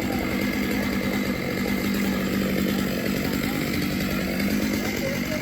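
Chainsaw running steadily at an even pitch, as in cutting up a fallen tree.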